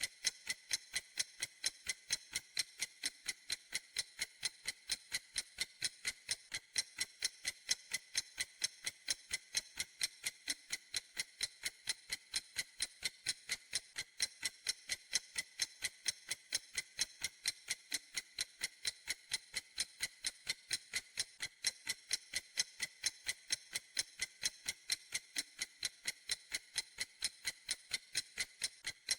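Clock ticking: crisp, sharp ticks at an even, quick rhythm.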